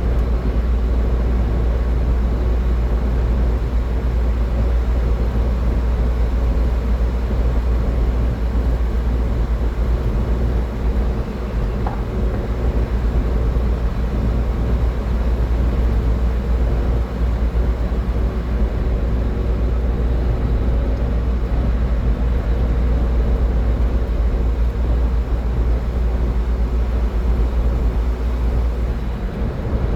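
Steady road noise of a car driving at highway speed: a continuous deep tyre-and-engine rumble with a faint steady hum.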